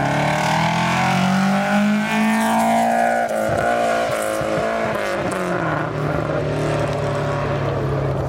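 Rally car engine under hard acceleration on a special stage. The pitch rises over the first two seconds, drops sharply about three seconds in as the car goes past, then holds steady at a lower pitch as it drives away.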